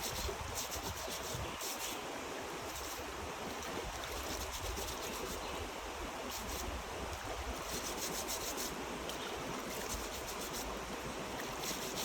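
Steady rushing outdoor noise with wind on the microphone, broken several times by short bursts of rapid high-pitched pulsing.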